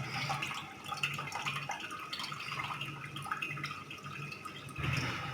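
Water dripping and trickling as freshly washed puffed rice is drained, with many small scattered drips over a faint low hum and a soft knock near the end.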